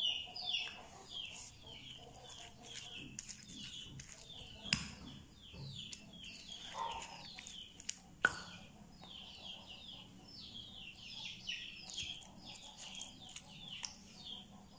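Bird chirping steadily, short high falling chirps at about two a second. Two sharp knocks, about five and eight seconds in, from stone against stone as the sambal is worked in the stone mortar.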